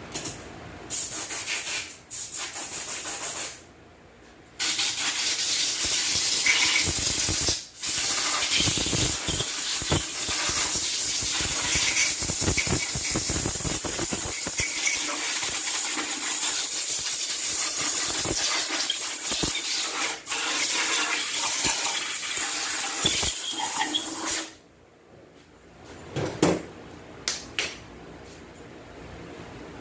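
Loud, steady hissing of a pressurised spray, broken by a short pause about 4 seconds in and a brief one near 8 seconds, then cutting off about 24 seconds in.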